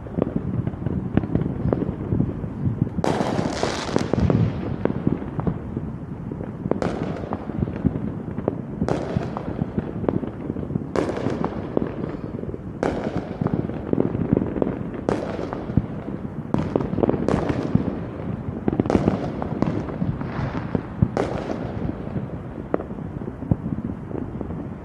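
Fireworks going off: sharp bursts roughly every two seconds over a continuous rumble and crackle of further explosions.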